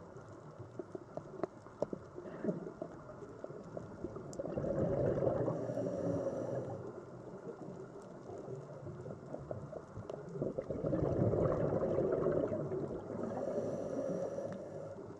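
Sea water surging in slow swells that build and fade every few seconds, with small crackling clicks between them.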